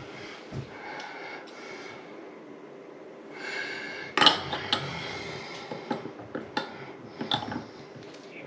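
Sharp metallic clinks and knocks of faucet parts and hand tools being handled, the loudest about four seconds in and a few more near the end.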